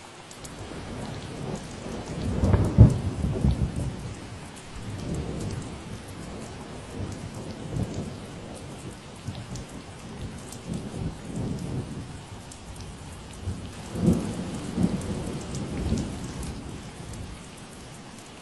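Steady rain falling, with two rumbling rolls of thunder: the louder one about three seconds in, and another about fourteen seconds in.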